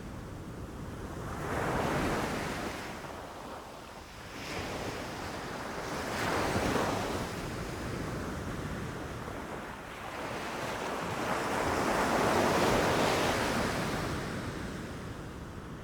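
Ocean waves breaking and washing ashore: a steady rushing surf that swells three times, the last swell the longest and loudest, then eases off. Some wind noise on the microphone.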